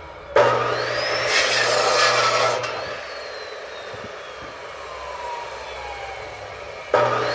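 Electric saw cutting firewood. The motor whines up as it starts and bites into the wood for about two seconds, then winds down with a falling whine after the cut. A second cut starts near the end.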